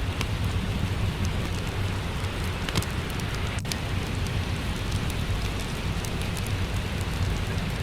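Steady rain falling, an even hiss over a low rumble, with scattered sharp crackles and pops from a wood fire in a fireplace.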